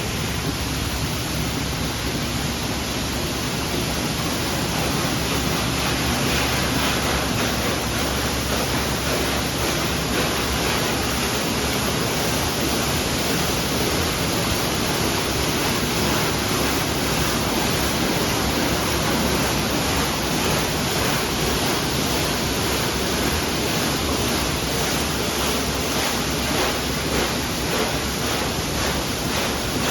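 Automatic car wash running over a pickup truck: a steady, loud rushing noise without a break.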